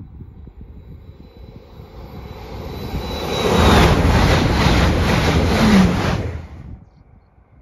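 LNER Class 800 Azuma express train passing at high speed. The rush of wheels on rail and air swells as it approaches, and a high whine drops in pitch as the front goes by. A quick regular beat of the wheelsets follows, then the noise falls away suddenly as the tail clears.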